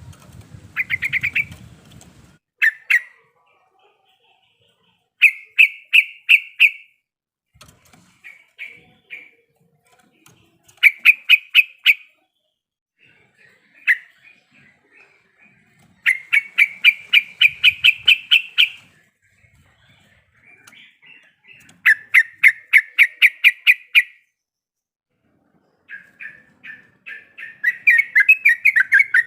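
Yellow-vented bulbul (trucuk) singing in repeated bursts of fast, rattling chatter notes. Each burst lasts one to three seconds, with short pauses between them.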